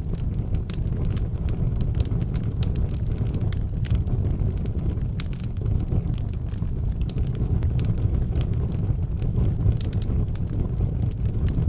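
Wood fire burning in an outdoor fireplace, crackling and popping with many sharp irregular snaps over a steady low rumble.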